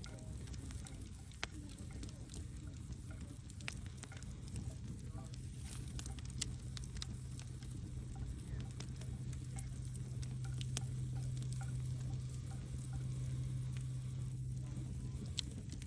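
Wood logs burning in a fireplace, crackling with scattered sharp pops and snaps over a low steady rumble of the fire.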